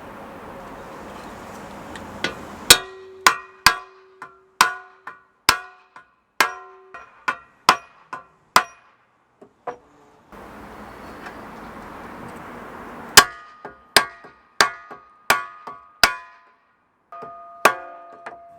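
Metal parts struck repeatedly with a hammer, each blow ringing: a run of about two blows a second, a pause, then a shorter run, ending with one ringing note.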